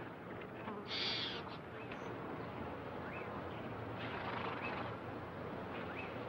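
Bird calls over a steady outdoor hush: a few short, rising chirps spaced a second or more apart.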